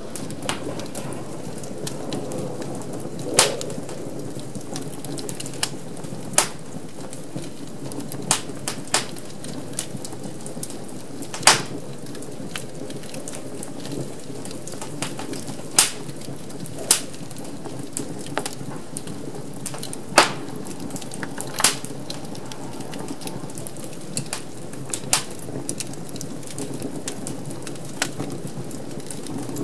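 Wood fire crackling in a fireplace: a steady low rustle of flames, broken by sharp pops and snaps of burning wood at irregular intervals, a handful of them much louder than the rest.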